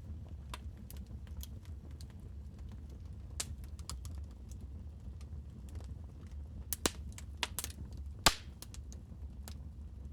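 Wood fire crackling in a fireplace: scattered sharp pops over a steady low rumble, with a few louder snaps about two-thirds of the way through.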